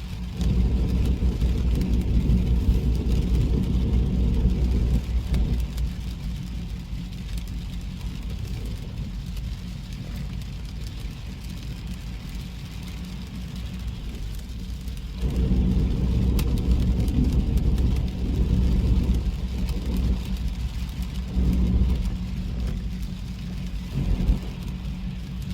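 A car driving on a wet road: steady engine and tyre noise under a faint hiss. The low rumble swells as the car accelerates, once at the start for about five seconds and again about two-thirds of the way through, with two shorter swells near the end.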